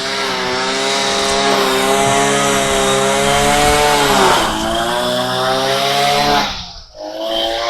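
Small petrol engine of a wheeled string trimmer running at high speed under load. Its pitch sags briefly about halfway through, then the sound drops away for a moment near the end before returning.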